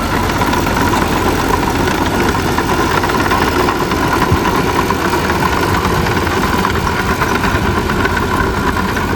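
Heavy diesel earthmoving machinery running steadily, with a steady whine over the engine noise.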